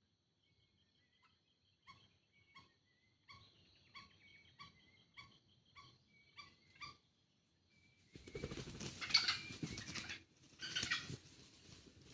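Green junglefowl calls in short repeated notes, about nine over five seconds, then two loud noisy bursts near the end; a lure recording meant to draw in wild green junglefowl.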